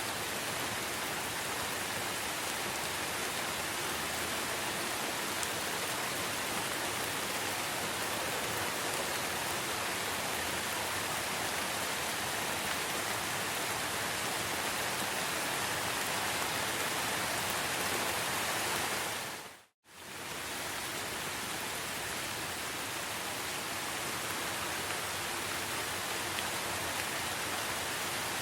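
Steady rain falling, an even hiss with no single drops standing out. Just before 20 s it fades out to silence for a moment and fades back in.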